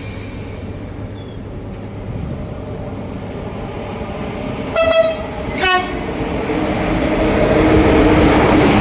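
Train horn sounding two short blasts about five seconds in, followed by the rumble of the train coming through, growing steadily louder.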